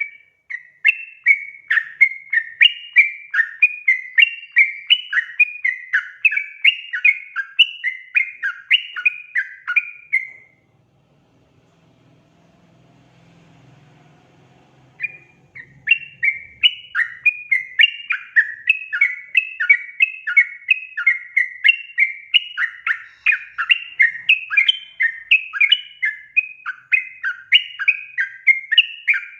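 Yellow-vented bulbul (trucukan) calling in a long run of chattering notes, about two a second. It breaks off for about five seconds in the middle, then starts up again. This is a lure call used to get other trucukan to sing.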